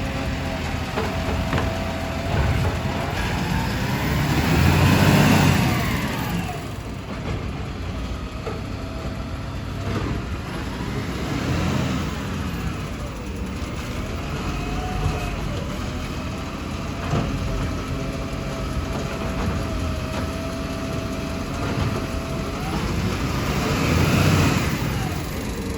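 Garbage truck running, with a steady whine over the engine hum; twice the sound swells and fades as a vehicle passes close, about five seconds in and near the end.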